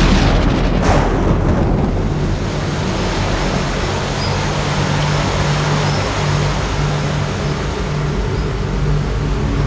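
Heavy rain pouring steadily in the forest, with two sharp cracks in the first second and a low steady drone underneath.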